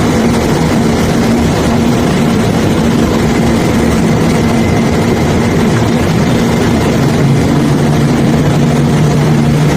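Heavy diesel engine of the unloading machinery running steadily under a dense wash of noise from the limestone cargo being moved; its hum drops in pitch about seven and a half seconds in.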